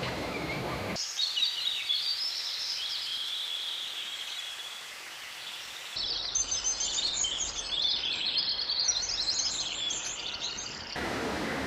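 Small birds chirping and twittering in quick, overlapping high notes. The sound cuts abruptly to a new, denser burst of chirping about six seconds in, and cuts away again near the end.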